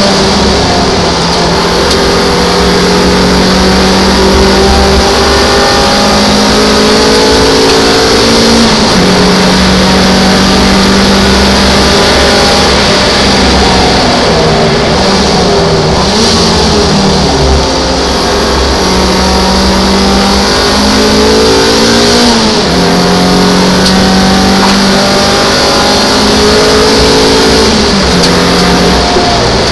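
An MGF race car's four-cylinder engine is heard from inside the car at racing speed, loud and near full volume. Its note is held steady along the straights, then falls and climbs again several times through gearchanges and braking for corners. Steady wind and road hiss lies over the engine.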